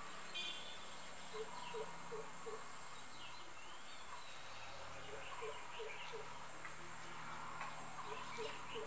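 Faint birds calling in the background: short runs of four or five low notes, about three a second, repeated a few times, with thin higher chirps over a steady hiss.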